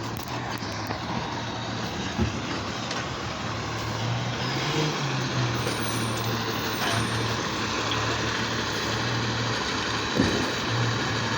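Recycling truck's diesel engine running steadily, swelling briefly about halfway through. Two sharp knocks come through, one about two seconds in and a louder one near the end.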